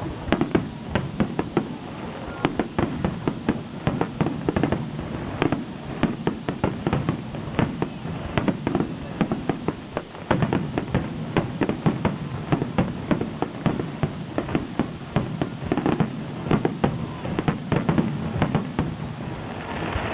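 Fireworks bursting in a rapid, continuous volley of sharp bangs, several a second, over a low rumble.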